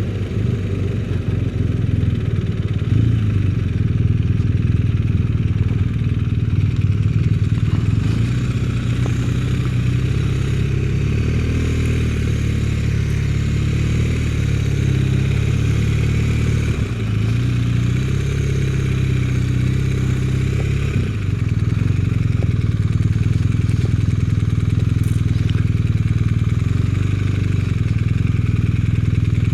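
Motorcycle engine running steadily under way, with the engine note dipping briefly twice, about halfway through and again a few seconds later, as the throttle is eased or a gear changed.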